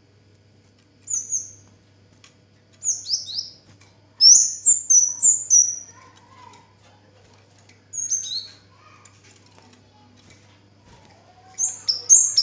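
Kemade (cigen) bird singing in five short bursts of high, sharp chirps, each note falling quickly in pitch. The loudest, longest run comes about four seconds in. A faint steady low hum runs underneath.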